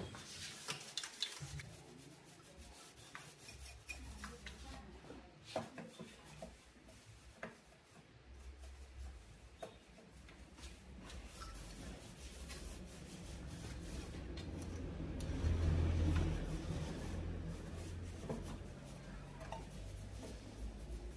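Rubbing and scraping with scattered light clicks and taps of small objects being handled, over a low hum that swells for a few seconds past the middle.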